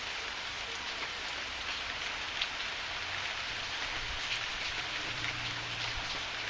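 Heavy rain falling steadily, a dense hiss with scattered individual drop taps. A faint low rumble comes in from about four seconds in.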